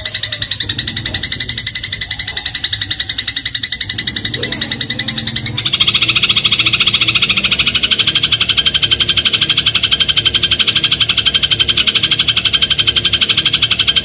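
Sparrow giving a fast, unbroken chattering trill of high clicking notes, many per second. About five and a half seconds in it shifts to a slightly lower, denser note.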